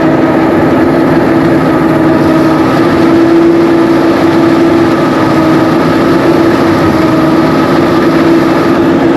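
Engine-driven rice threshing machine running steadily under load, a loud constant mechanical drone with a steady hum.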